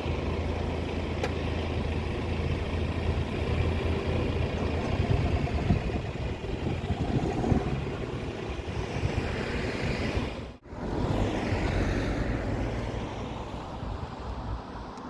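Steady rumble of a passing vehicle with a low engine drone, cutting out sharply for a moment about ten and a half seconds in, then wind buffeting the microphone.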